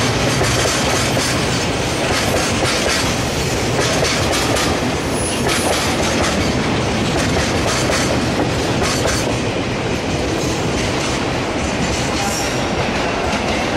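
Freight train of Taki oil tank wagons rolling past at close range, the wheels clattering over rail joints. The last wagon passes partway through and the rolling noise carries on.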